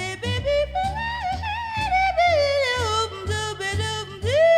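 Recorded female jazz vocal scat-singing over a walking bass line, played back through ATC SCM20 loudspeakers and picked up by a microphone in the room. The voice runs down in a long sliding phrase, then swoops up near the end.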